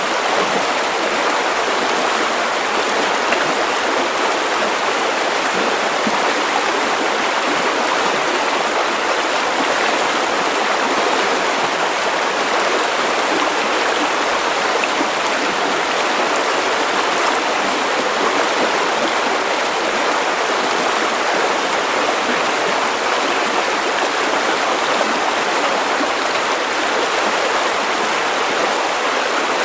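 River water running steadily over stones, a continuous even rushing and babbling with no breaks.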